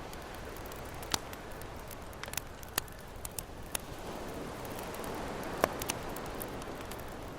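Campfire crackling, with sharp wood pops every second or so, over the steady wash of ocean waves that swells slightly midway.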